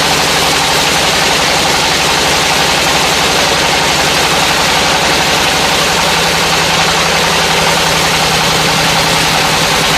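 An engine running steadily at a constant speed, with a fast, even pulse and no change in pitch.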